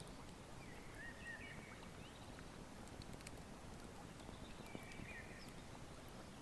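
Wood fire crackling with scattered sharp pops over the steady flow of a river. A bird calls twice, briefly, about a second in and again near five seconds in.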